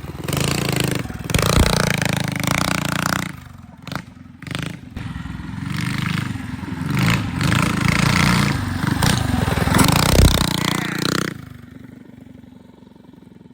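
Small single-cylinder mini bike engine revving up and down hard as the bike is ridden and jumped through snow, with a couple of low thuds; the engine sound drops away sharply about eleven seconds in.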